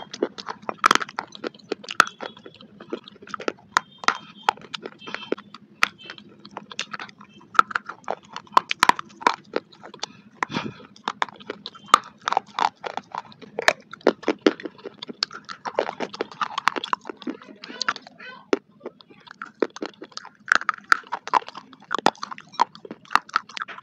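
Dry baked clay pot chunks being crunched and chewed close to a clip-on microphone: sharp, irregular crunches several times a second with wet mouth sounds between them.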